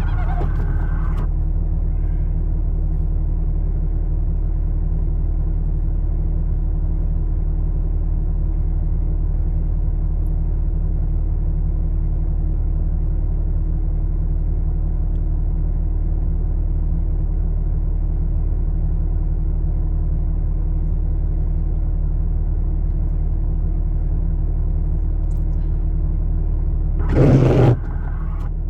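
Vehicle engine idling steadily with a low, even rumble. There is a brief louder noise near the end.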